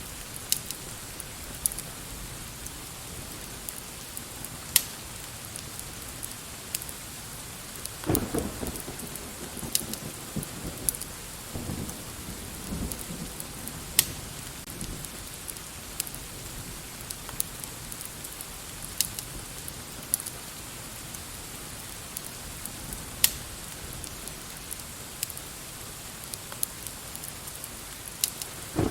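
Steady rain with scattered sharp pops and clicks through it, and a low rumble of thunder that begins about eight seconds in and rolls on for several seconds.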